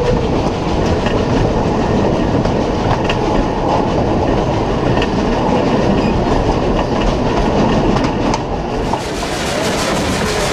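Durango & Silverton narrow-gauge train running along the track: a steady rumble of wheels on rail with faint clicks from the rail joints. Near the end it turns a little quieter and hissier.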